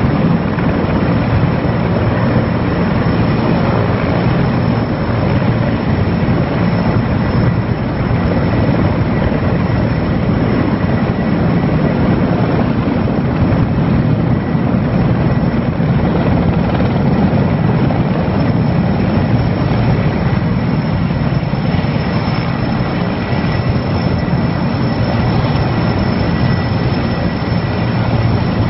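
Erickson S-64 Air-Crane heavy-lift helicopter running steadily at close range and loud: a dense rotor beat with a thin, steady high whine above it.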